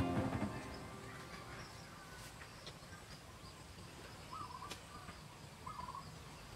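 Background music fading out at the start, then faint outdoor ambience with a few short bird chirps, one about four seconds in and another near six seconds.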